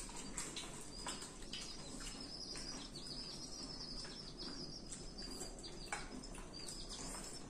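Small birds chirping in many short, quick runs of high notes over a faint steady hiss, with a single sharp click about six seconds in.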